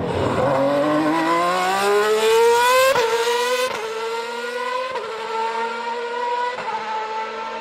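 Ferrari Formula One car's high-revving engine accelerating hard. The pitch climbs steeply for about three seconds, then the car upshifts four times, each shift a sharp small drop in pitch followed by a slower climb.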